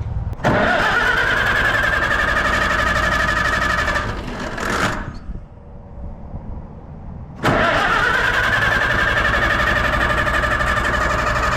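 Allis-Chalmers WD45 tractor engine cranking on its starter in two bursts of about four seconds, the whine rising as the starter spins up each time, without the engine firing: the ignition is getting no spark.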